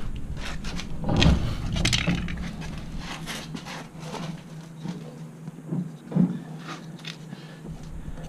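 Hand tools clicking, knocking and scraping as a motorcycle's chain adjusters are worked, over a steady low hum.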